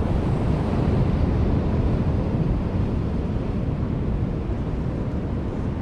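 Steady wind rumbling on the microphone, a dense low noise with no distinct events.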